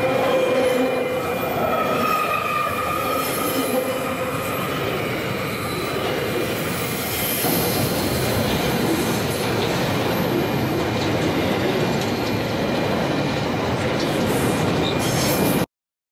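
Train passing close at speed: a steady rumble and rattle of wheels and wagons, with thin squealing tones from the wheels over the first few seconds. The noise grows heavier about halfway through and cuts off abruptly just before the end.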